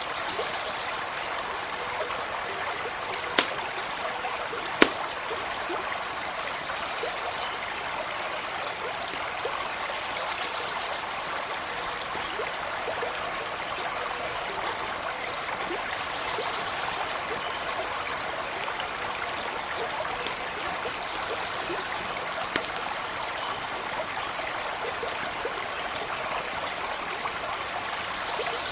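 Steady rushing and trickling of a stream, with a few sharp pops and crackles from a campfire; the two loudest pops come about three and five seconds in.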